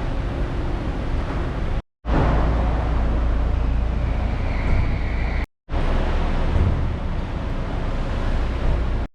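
Car engines and street traffic in short back-to-back clips, the sound cutting off abruptly twice between them. Deep steady engine rumble, with a brief high-pitched whine about four to five seconds in.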